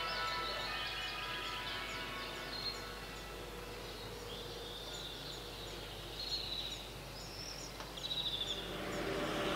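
Background music fading out, then birds chirping, with short high calls repeated every so often over faint outdoor noise.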